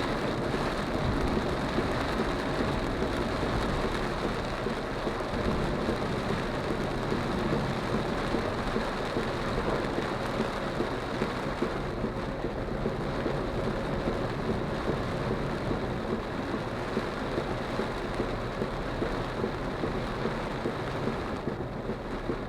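Extremely heavy rain drumming steadily on a small car's roof and windscreen, heard inside the moving car's cabin.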